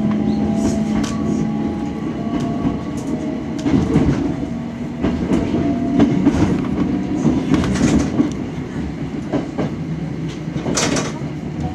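Hakone Tozan Railway Allegra electric train running steadily on the mountain line, heard from inside at the front of the car: a constant rumble of the wheels with scattered clicks over rail joints and points, and a louder clatter near the end. Faint thin squealing tones run underneath.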